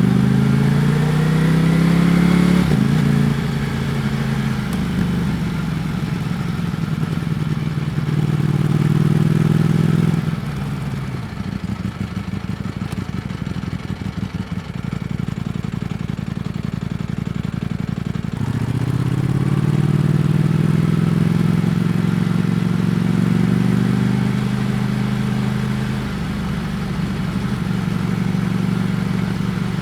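Ducati Panigale V4 S's V4 engine under riding, heard from the rider's position. It accelerates with a rising pitch and shifts up a gear about two and a half seconds in, pulls again, then goes off the throttle around ten seconds in and runs lower and rougher for several seconds. From about eighteen seconds it accelerates again, with another upshift near the end.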